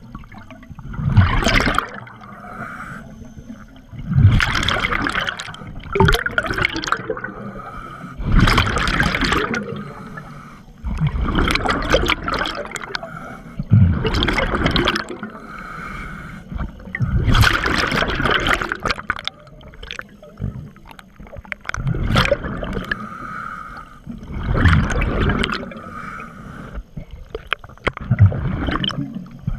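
Scuba regulator breathing underwater: a gurgling rush of exhaled bubbles about every three to four seconds, with a quieter hiss between breaths.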